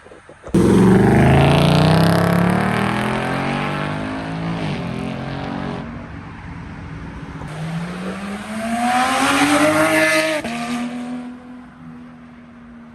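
A car engine revving hard as it accelerates past, its pitch falling as it goes by, then a second burst of acceleration rising in pitch that cuts off sharply about ten seconds in.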